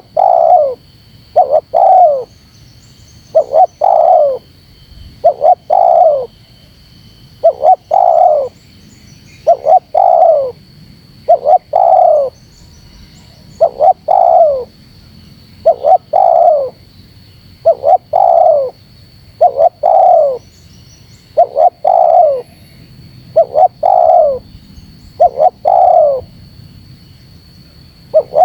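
Spotted dove (terkukur) cooing over and over in a dense, insistent run: short coos that fall in pitch, mostly in quick pairs, about every two seconds without a break.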